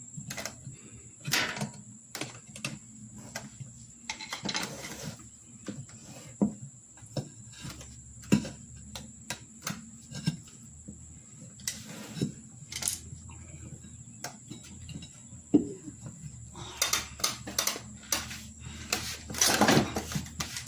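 Irregular clicks and knocks of hand work on a riding lawnmower wheel, with tools and the tire being handled to work the tire back off the rim, and a busier run of knocks near the end.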